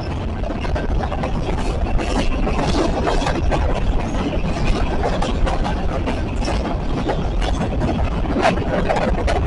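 Train rolling past: a steady low rumble of the cars on the rails, with scattered sharp clacks throughout.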